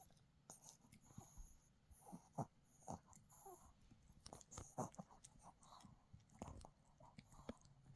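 A dog chewing and gnawing a hard dog chew, with irregular crunches and clicks of its teeth and its breathing between bites.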